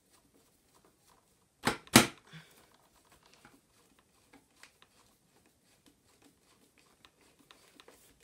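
Handle of a vintage Hoover Senior upright vacuum being fitted and screwed in by hand: two sharp knocks close together about two seconds in, then faint scattered clicks and taps.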